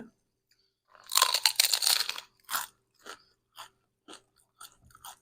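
A bite into a hard-shell corn taco: a loud, crackling crunch about a second in that lasts about a second, then crunchy chewing about twice a second, close to the microphone.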